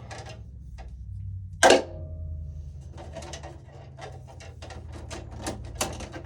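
Hand work inside a metal electrical panel. About two seconds in there is a sharp metallic clank with a brief ringing tone, then a run of light clicks and taps.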